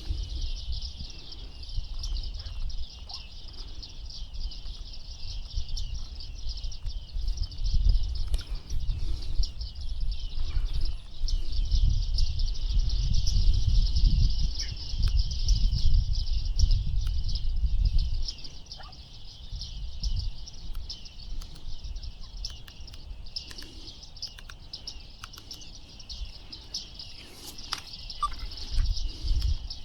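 A flock of bearded reedlings calling continuously in a dense chatter of high chirps. A low wind rumble on the microphone grows heavier in the middle.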